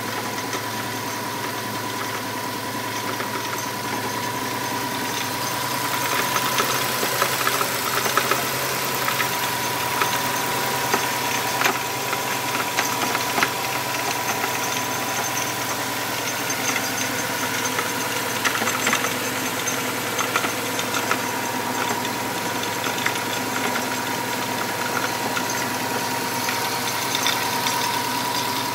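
2005 Subaru WRX's turbocharged flat-four engine idling, with a steady whine running over it and irregular sharp ticks that become more frequent about six seconds in. This is an unexplained engine noise that a repair shop could not diagnose.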